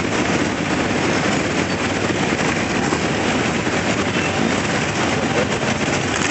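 A steady stream of motorcycles riding past together, their engines and exhausts blending into one continuous, loud drone.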